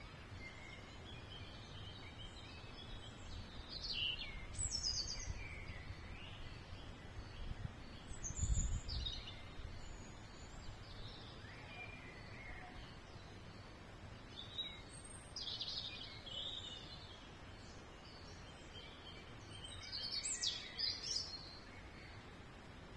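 Songbirds chirping and twittering in scattered bursts of short, high calls over a faint steady background hiss. There is a brief low rumble about eight and a half seconds in.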